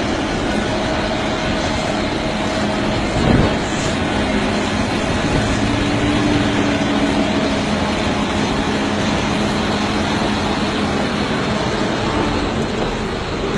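Heavy diesel machinery running steadily under load during rock crushing, with one sharp knock about three seconds in.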